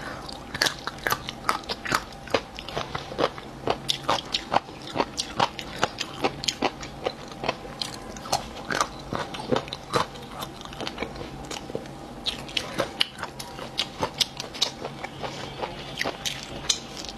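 Close-miked crunching and chewing of crisp, crunchy meat-edged cartilage bones, a quick irregular run of sharp crackling crunches several times a second with wet chewing between them.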